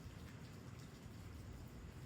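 Faint steady rain falling, with a low background rumble and scattered patter of drops.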